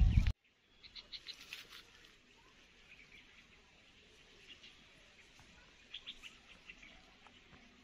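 Faint bird chirps, short high calls in small clusters every second or two, over a quiet outdoor background. A loud rushing noise cuts off suddenly at the very start.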